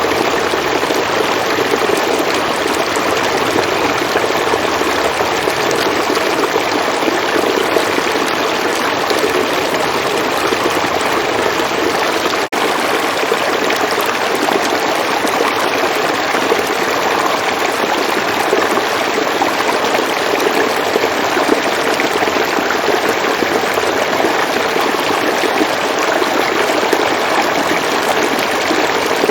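River water flowing, a steady even rush of moving water, with a momentary drop in level about twelve seconds in.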